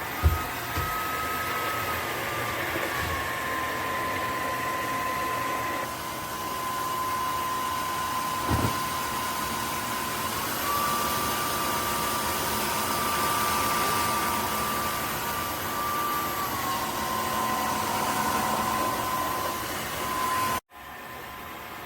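Dreame H12 Pro cordless wet-dry vacuum mop running, a steady motor whine over airflow noise. The whine steps down in pitch after a few seconds, back up about halfway through, and down again later. There are two short knocks, just after the start and about a third of the way in. Near the end the sound drops off abruptly to a quieter hum.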